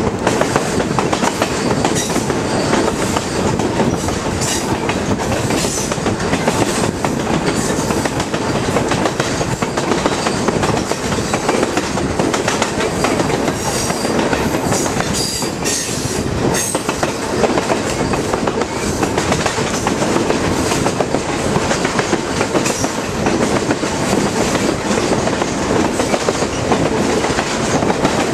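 Passenger train rolling along the track: a steady rumble of steel wheels on rail with clickety-clack over the joints, and a few brief high squeaks about halfway through.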